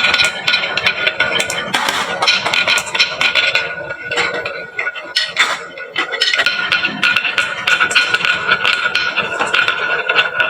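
Many glass marbles rolling and clattering down a wooden marble-run slope, a dense stream of rapid clicks and knocks with some ringing, easing off briefly midway before picking up again.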